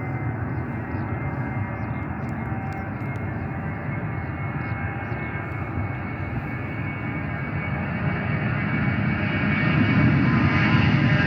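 Airliner engines running with a steady rumble and whine, growing louder over the last few seconds as the aircraft draws nearer.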